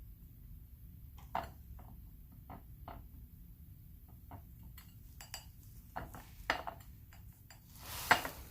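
Scattered light taps and clinks of a paintbrush against a palette plate as watercolours are mixed, with a louder, longer clatter about eight seconds in.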